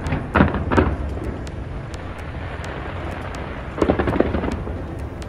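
Fireworks exploding: three booms in quick succession at the start and another cluster of bursts about four seconds in, over a steady low rumble, with faint crackles.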